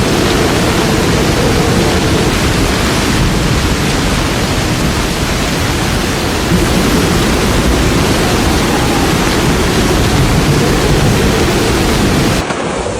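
Loud, steady rushing noise of turbulent water, even and without any rhythm, which cuts off suddenly shortly before the end.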